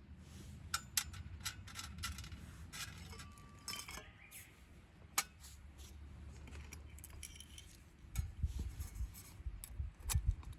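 Irregular light clinks and rattles of small hard objects being handled, with a brief ring about three seconds in and some dull low thumps near the end.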